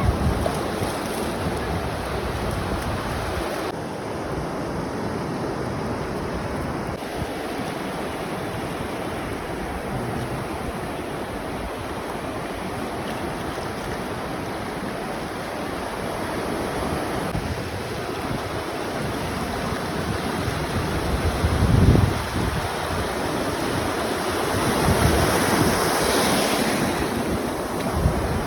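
Waves washing onto a shore in a steady rush of surf, with wind buffeting the microphone. There is a low gust about three-quarters of the way through, and a wave surges louder near the end.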